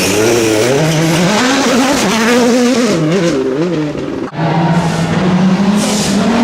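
Rally car engines at full throttle, the pitch rising and falling as they rev through gear changes. About four seconds in the sound breaks off abruptly, and an engine follows holding steadier high revs.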